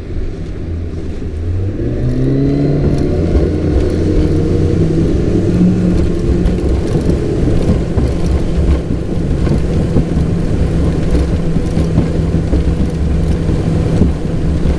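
Boat motor speeding up, its pitch rising over about a second, then running steadily at speed.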